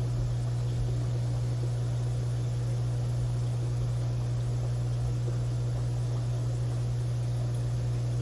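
Aquarium equipment running: a steady low electrical hum with a faint even hiss over it.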